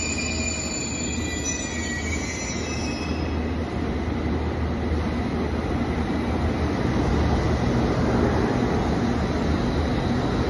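Train wheels squealing on the rails, several high tones together that fade out after about three seconds, over the steady rumble of the train running, which grows a little louder later on.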